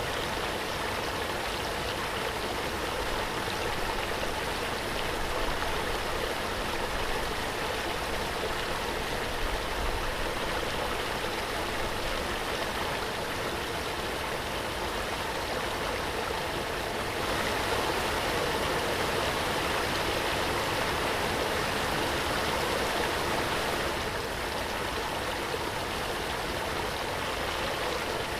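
Waterfall water rushing in a steady, even roar, swelling a little louder and brighter for several seconds past the middle.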